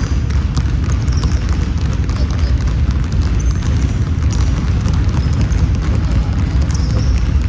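Basketball game sounds: a ball bouncing and brief high sneaker squeaks on the court, over a heavy, steady low rumble.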